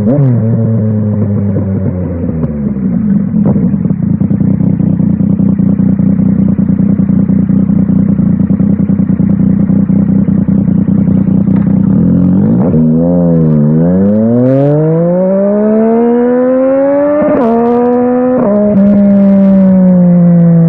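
Yamaha Tracer 900 GT's inline-triple engine through an aftermarket WR Authentic exhaust. The note falls as the throttle closes, then holds steady for about ten seconds. Near the middle it dips and then climbs under hard acceleration, breaking twice at quick upshifts, and settles into a steady note near the end.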